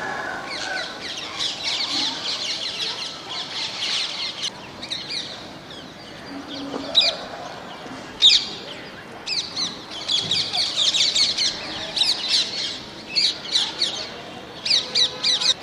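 A flock of parrots calling: many short, shrill, overlapping calls, thick for the first few seconds, thinning out in the middle, then thick again.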